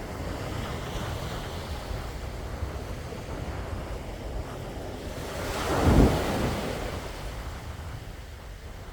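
Sea waves washing on the shore, with one wave breaking and surging up about six seconds in before fading back, over wind rumbling on the microphone.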